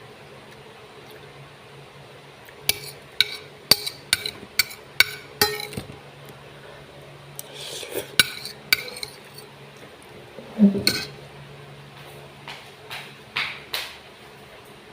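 Eating utensils clinking against a bowl or plate in clusters of sharp taps, with a louder knock about two-thirds of the way through.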